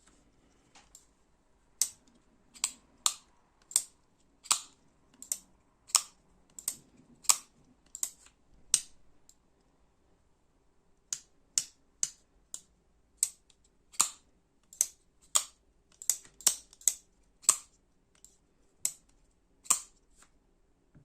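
OK-81 folding knife on a ceramic-bearing pivot being flicked open and shut again and again, each move ending in a sharp click as the blade hits its stop. The clicks come about one or two a second, in two runs with a short pause between them.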